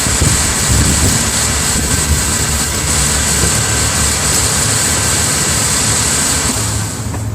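2000 Mazda MPV's 2.5-litre Duratec V6 running steadily at idle, heard close up in the open engine bay, with a steady high hiss over the low rumble. Near the end the high hiss drops away and the engine sound becomes quieter.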